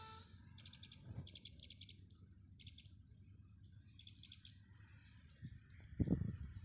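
Small birds chirping faintly: short, high chirps in quick little clusters every second or so. A few low thumps come near the end.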